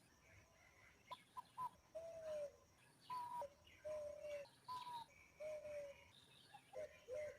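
A bird calling in a run of clear whistled notes, starting about a second in: short higher notes alternate with longer, slightly falling lower ones, repeated several times.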